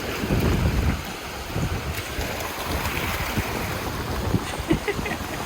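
Wind buffeting the microphone in uneven gusts over a steady rush of ocean surf.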